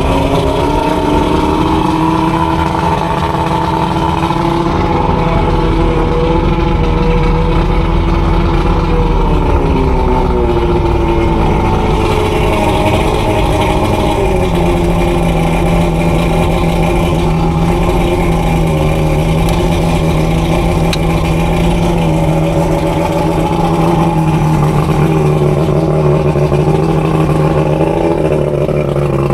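Johnson 140 HP two-stroke outboard motor running steadily and loud, its pitch sliding as engine speed changes about ten to fourteen seconds in.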